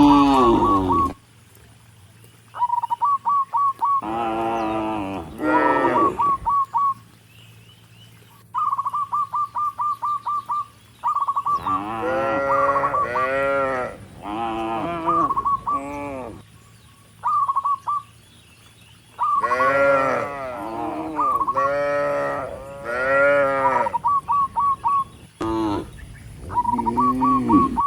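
Cattle mooing: a run of long, pitched moos, some overlapping, in several clusters with short pauses between them. In the gaps, quick trains of short high chirps repeat several times a second.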